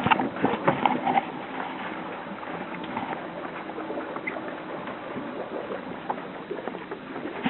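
Steady wash of a fishing boat under way, water and wind noise, with a few clicks and knocks in the first second and faint scattered ticks after.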